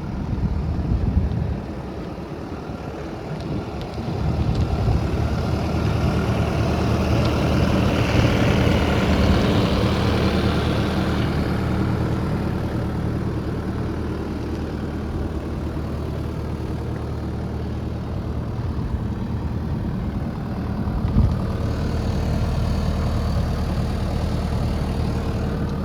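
2019 New Holland C232 skid steer's diesel engine running steadily. It grows louder and busier for several seconds about a sixth of the way in, then settles, with a single knock about three quarters of the way through.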